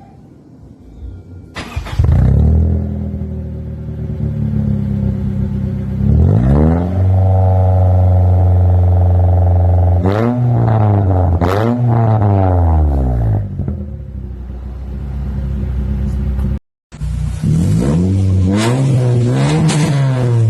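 Engine exhaust through an HKS aftermarket muffler. It comes in suddenly about a second and a half in and idles, then is revved up and held high for a few seconds. It is blipped several times, settles back to idle, and after a brief break is revved repeatedly near the end.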